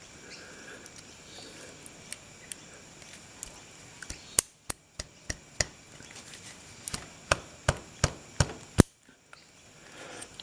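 Screwdriver levering at the old plastic oil sight glass in a BMW K100 engine case. About a dozen sharp clicks and taps come in two quick runs of roughly three a second, starting a few seconds in, as the blade works the glass loose.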